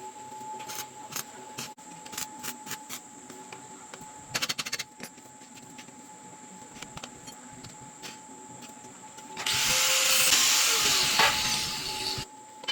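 Scattered clicks and taps of hand-tool work, a quick rattle of clicks, then a handheld power tool runs for about three seconds near the end.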